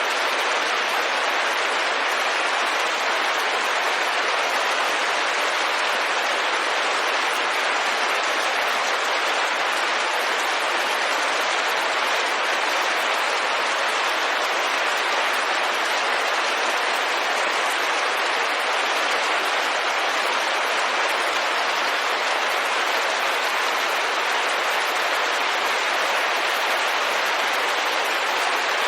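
Steady rain pattering on a window, a dense even hiss with no breaks.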